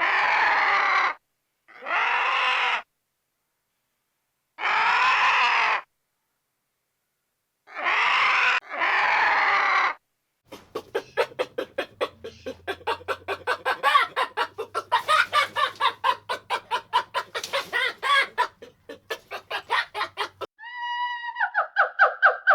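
Chickens: five loud pitched calls of about a second each, with gaps between them, then rapid clucking for about ten seconds. Near the end a different, steady pitched animal call cuts in.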